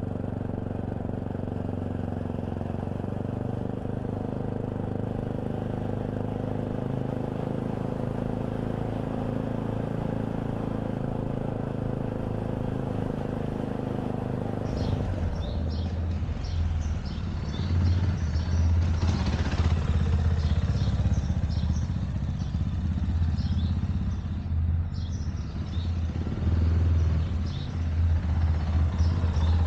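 Fantic Caballero 500's single-cylinder engine running at a steady note. About halfway through, the sound changes abruptly to a louder, deeper, uneven pulse with light ticking and clatter on top.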